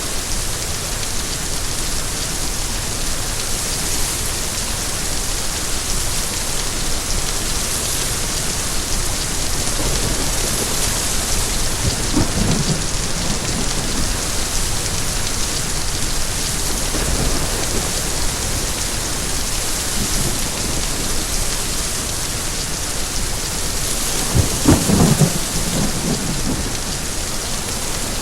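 Steady rain falling, with low rolls of thunder partway through and a louder roll of thunder near the end.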